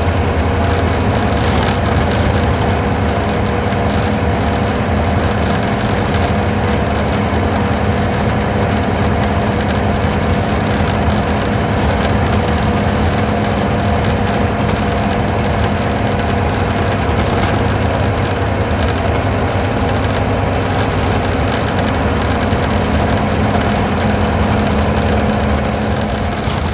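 Isuzu Gala coach's V-type diesel engine running steadily under way, with tyre and road noise, heard from inside the passenger cabin.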